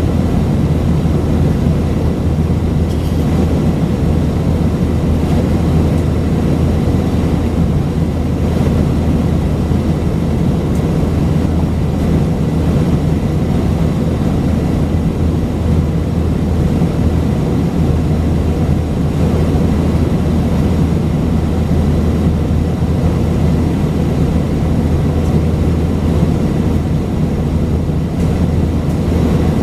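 Airbus A319-132's IAE V2500 engines running steadily, heard inside the passenger cabin as a constant drone with a low hum and a faint high whine.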